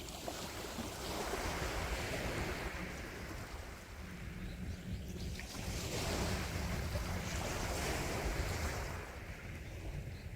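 Gentle sea waves washing onto a shore: two swells of surf, the second a few seconds after the first, over a steady low rumble.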